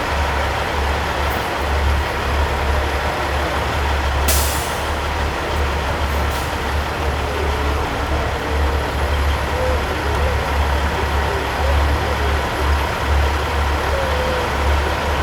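Diesel engines of Peterbilt semi-trucks running with a steady low rumble, with a short hiss of air about four seconds in and two fainter ones a couple of seconds later, like air brakes releasing.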